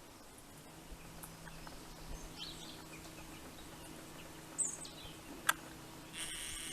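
Faint outdoor ambience with a few soft bird chirps over a low steady hum; a sharp click comes about five and a half seconds in, and a short mechanical whir starts near the end.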